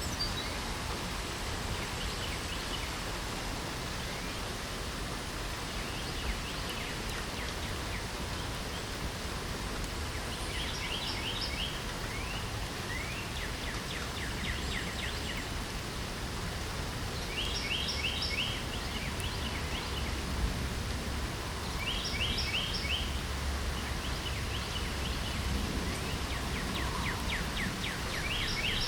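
Steady patter of light rain, with birds singing short phrases of quick repeated high notes several times over it.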